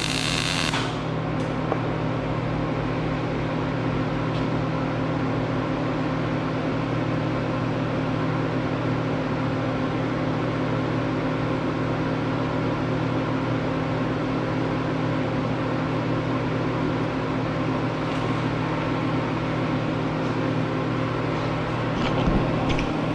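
A bright hiss cuts off about a second in, leaving a steady low machine hum with several steady tones, unchanged for the rest of the time.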